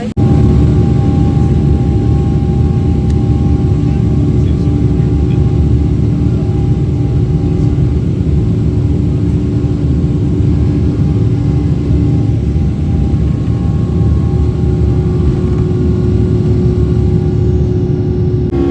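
Boeing 777 cabin noise: the jet engines running at high power, a loud steady low rumble with several steady hums over it, heard from inside the cabin.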